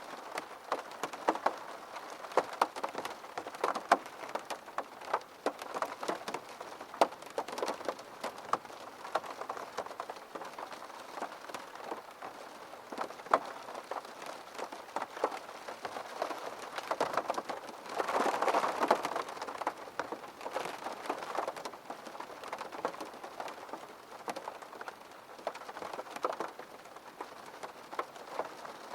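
Rain pattering on a window, many separate drops tapping over a steady hiss, heavier for a couple of seconds around the middle.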